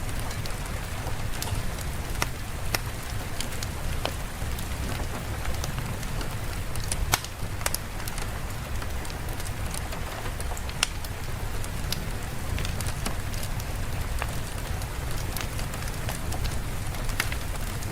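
Steady rain falling, with a low rumble beneath and scattered sharp pops and crackles through it.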